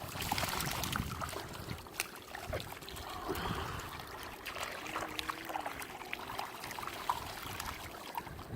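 Water trickling, with many small splashes and ticks, as caught fish are thrown back into the water.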